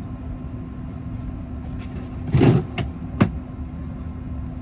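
Steady low mechanical hum with a couple of steady tones in it. A loud thump comes a little past halfway, then two sharp clicks, like a door or latch being worked.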